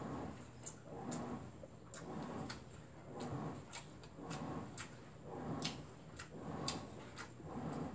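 A person chewing a mouthful of noodles and kimchi, with wet mouth clicks and smacks, about one chew a second.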